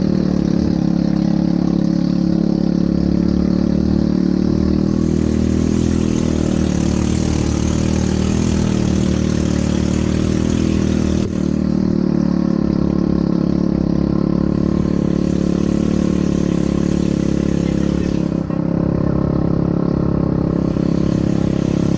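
ATV engine running at a steady pitch while riding, with a hiss that comes and goes on top.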